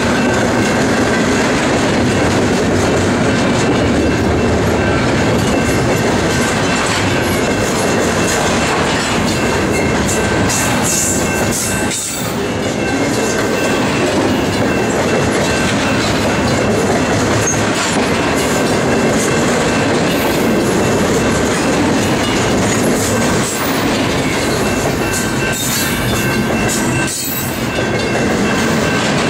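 Double-stack intermodal freight train's well cars rolling past: a loud, steady rumble of steel wheels on rail with a thin, steady high ring over it. The level dips briefly twice.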